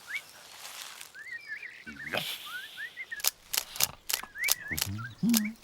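Cartoon birdsong: short chirps repeating over a light hiss, then a rapid series of sharp clicks starting about halfway through, with a brief low grunt near the end.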